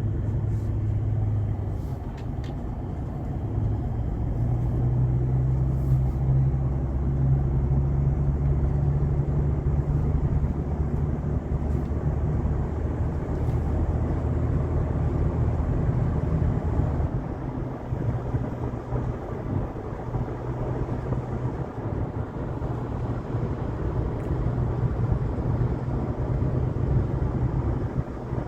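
A car driving along a road: steady engine and road drone, with a low hum whose pitch shifts a few times.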